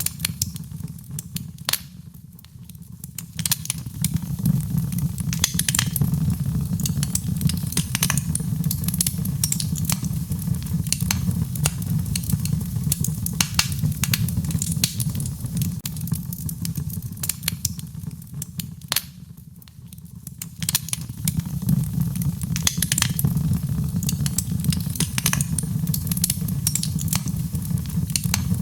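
Wood fire crackling and popping over a steady low rumble, layered with rain. The whole sound dips briefly twice, then returns to its former level.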